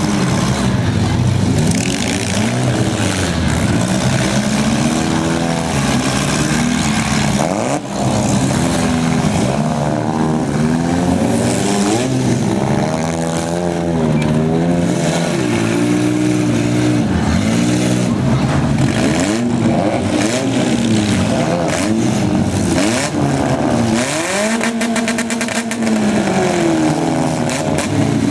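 Several small-car engines revving and running at once in a demolition derby, their pitch repeatedly rising and falling as the cars accelerate, back up and ram each other.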